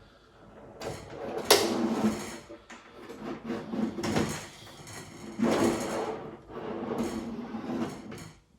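Wooden silverware tray running on soft-close drawer slides, pushed and pulled several times in a test of its travel, with a sharp click about one and a half seconds in.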